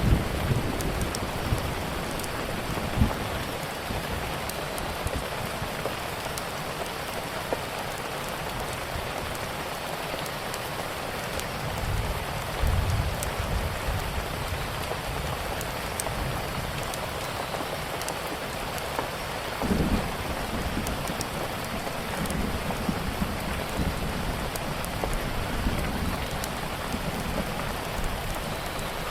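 Steady rain falling, mixed with the small pops of a crackling wood fire. There are low rumbles about twelve and twenty seconds in.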